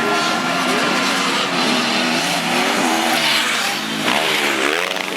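Motocross dirt bike engines revving, their pitch rising and falling with the throttle, and a drop and climb in pitch near the end.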